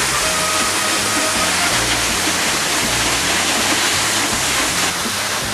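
Steady rush of a large waterfall, with background music laid over it: a bass line stepping between low notes and a few held higher tones.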